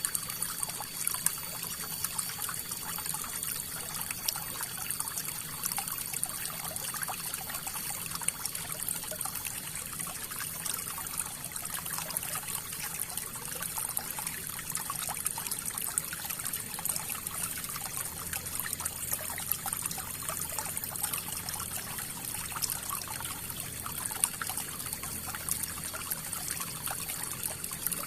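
River water flowing steadily, a continuous rush of water with fine splashing and trickling.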